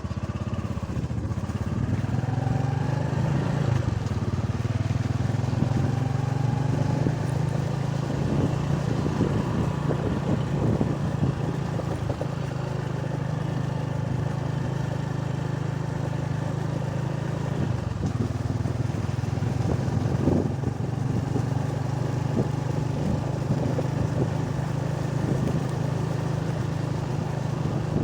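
Motorcycle engine running while riding along; its pitch rises over the first few seconds, then it holds a steady drone.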